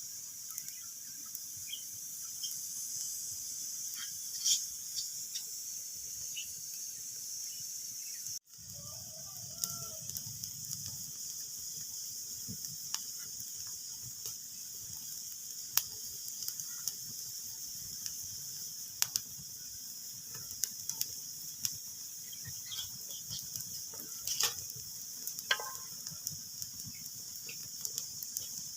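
Wood fire crackling in a fireplace: a steady hiss with scattered sharp pops and snaps. The sound cuts out for an instant about eight seconds in.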